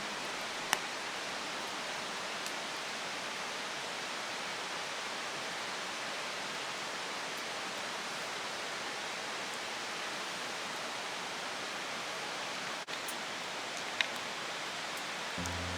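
Steady rushing of flowing water, with two sharp pops, one about a second in and one near the end.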